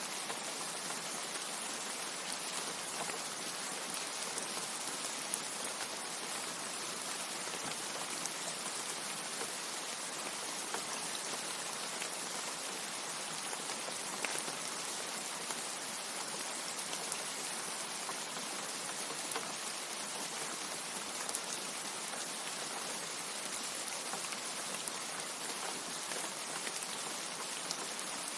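Steady rain falling: an even, unbroken hiss with scattered sharper drop ticks here and there.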